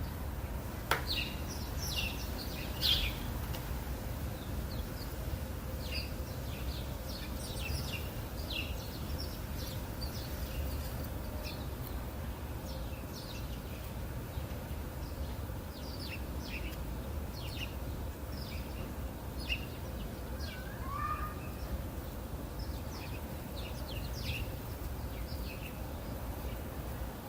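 Songbirds chirping with many short, high notes in scattered runs, and a lower call about twenty seconds in, over a steady low background rumble.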